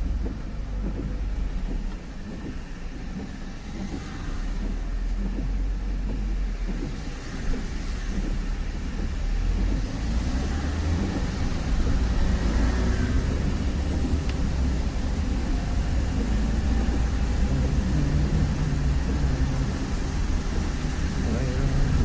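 A car driving: a steady low rumble of engine and road noise that gets somewhat louder partway through.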